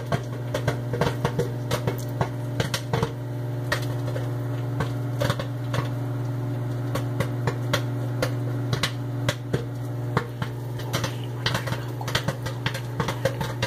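Popcorn kernels popping in a brown paper bag inside a running microwave oven: irregular sharp pops over the oven's steady hum, busiest at the start and again near the end.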